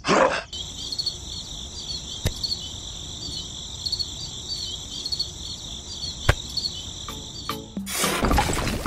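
Crickets chirping in a steady high trill that starts abruptly after a short whoosh and cuts off abruptly near the end, where a louder noisy burst takes over.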